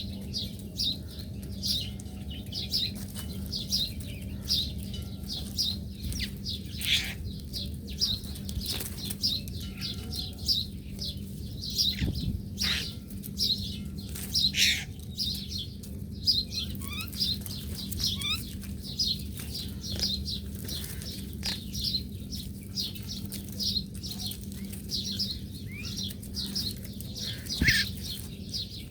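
Small birds chirping: a run of short, high chirps about two a second, with a few louder calls, over a low steady hum.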